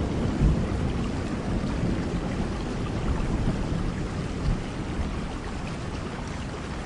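Thunderstorm: steady rain with a low rumble of thunder that slowly dies away.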